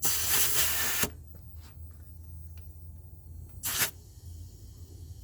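Compressed air hissing out of the truck's air brake system in two bursts: about a second of loud hiss at the start, then a short sharp hiss near the four-second mark. The system is still holding air after 30 years of sitting.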